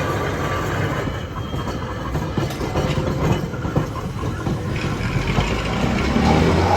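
Trolley running on rails, its wheels clattering, with a whine coming in near the end.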